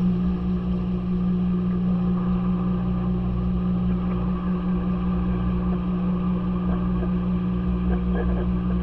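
Maytag washing machine running with a steady motor hum, which steps up in loudness right at the start and then holds even.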